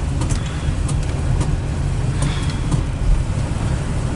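Steady low rumble from inside a 1979 Mercury Cougar XR7's cabin: the car's engine with road and traffic noise around it, and a few faint clicks.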